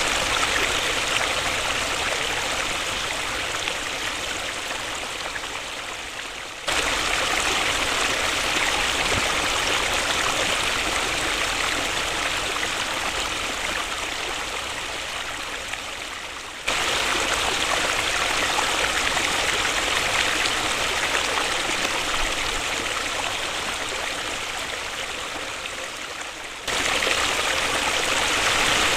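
Waterfall rushing in a steady roar of falling water. The level sags gradually and then jumps abruptly back up three times, about ten seconds apart.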